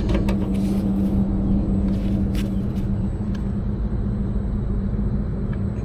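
Steady mechanical hum of running machinery, with a constant low tone and a rumble under it. A few faint clicks of hand tools sound over it.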